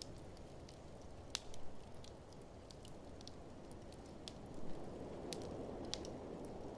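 Wood fire crackling in an open fireplace: scattered sharp pops and snaps, a louder one about a second and a half in and again near the middle, over a steady low rush of blizzard wind.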